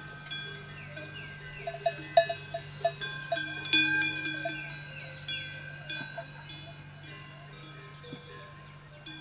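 Irregular clanking of animal bells with a few short, descending bird calls, over a steady low hum.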